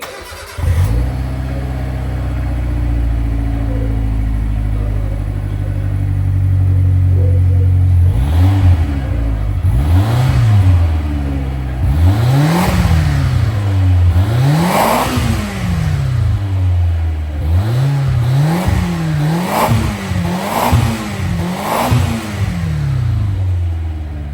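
Exhaust of a Mitsubishi Pajero Mini's 660 cc twin-cam four-cylinder engine through a Willswin compact hopper-type aftermarket muffler: idling steadily, then revved in about eight throttle blips, the highest and longest in the middle, before dropping back to idle.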